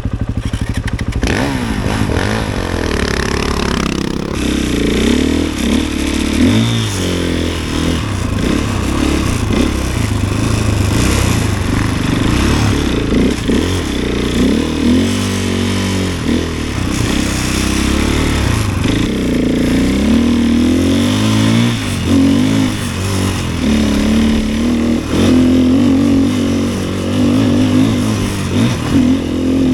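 Snowbike's single-cylinder 450 cc four-stroke dirt-bike engine pulling away and riding, loud from the start, its revs rising and falling again and again through the ride.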